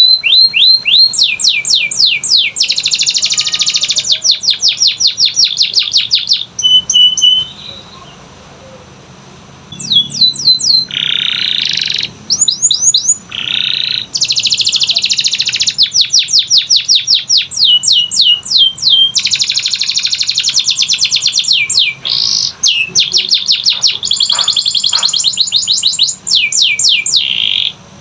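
Domestic canary singing: long rapid rolls of repeated notes alternating with series of quick falling whistled notes, broken by a pause of about two seconds roughly eight seconds in.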